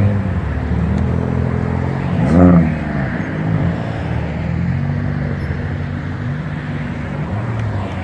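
Car engine running, with a quick rev that rises and falls about two and a half seconds in, among other engines at a car meet.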